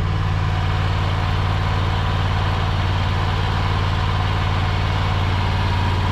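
An engine idling steadily at an even, unchanging speed, with a fine low pulse.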